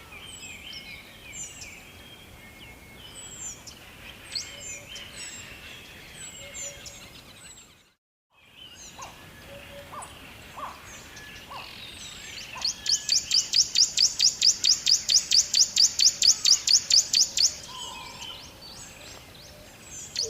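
Several songbirds chirping and calling with short high notes and sweeps. The sound cuts out completely for about half a second around 8 seconds in, then birds resume, and from about 12 to 17 seconds a loud, rapid trill of about eight notes a second dominates.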